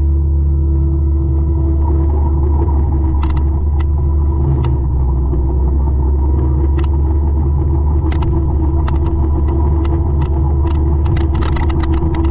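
A 200-horsepower forestry mulcher running steadily under load, a heavy low drone. Scattered sharp cracks and ticks sound over it, more of them near the end.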